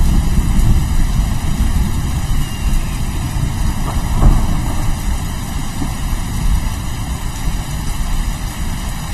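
Steady rain with a continuous low rumble of rolling thunder, swelling briefly about four seconds in.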